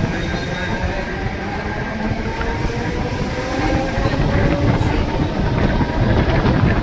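Mumbai suburban electric local train running slowly along a station platform: a steady rumble of wheels on the rails, heard from the open doorway, getting a little louder toward the end.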